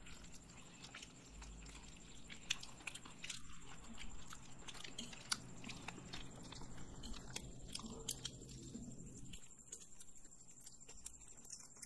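Faint chewing and biting of fried chicken and noodles by several people eating at once, with scattered small wet mouth clicks.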